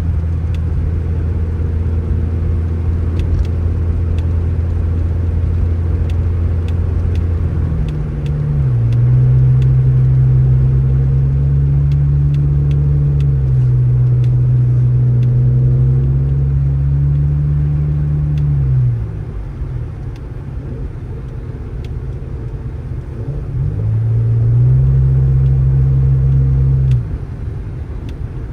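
A vehicle engine running, revving up about eight seconds in and holding high for about ten seconds before dropping back, then revving up and holding again near the end.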